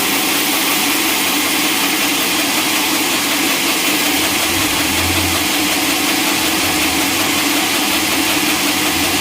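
Sawmill machinery running steadily, with a constant mid-pitched hum over a broad hiss and a brief lower hum about five seconds in.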